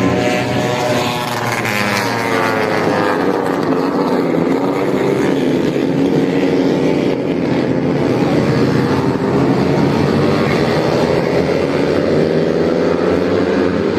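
Racing motorcycles running on a circuit, a continuous engine note whose pitch rises and falls as the bikes pass and change speed.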